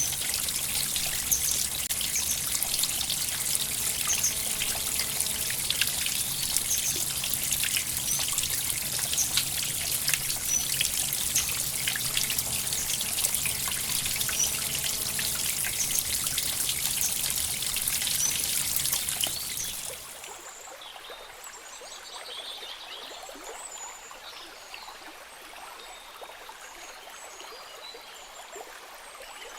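Small stream trickling and splashing steadily. About twenty seconds in it cuts off abruptly to a much quieter flow with scattered faint high chirps.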